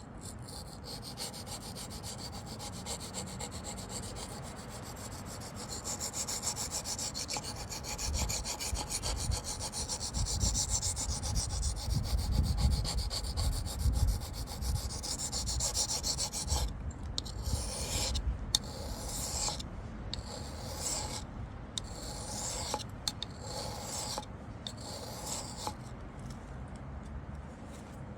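Steel knife blade stroked back and forth across a water-wetted Wästikivi sharpening stone, a steady scraping rub as a dull edge is sharpened. After about sixteen seconds the rapid rubbing gives way to separate strokes, roughly one a second.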